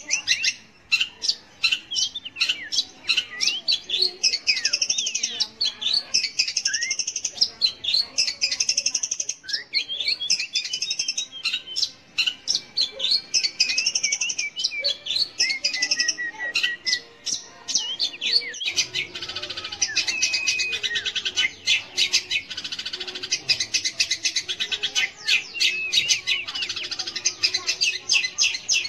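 Long-tailed shrike (cendet) singing a fast, continuous chattering song of sharp notes and short whistled glides, with only brief pauses.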